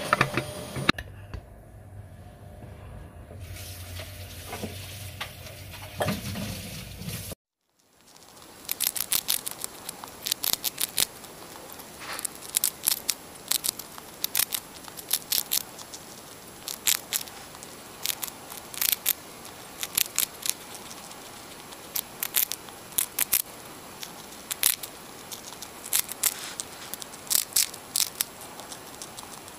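Hands-on food preparation: quick clusters of short, sharp clicks and taps. A hard cut about seven seconds in changes the sound from a low hum to this tapping.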